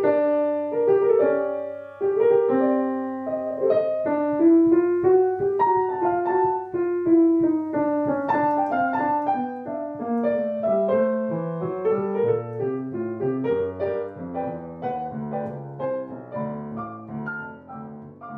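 Background piano music: a gentle melody of separate notes over a falling bass line, growing softer in the last few seconds.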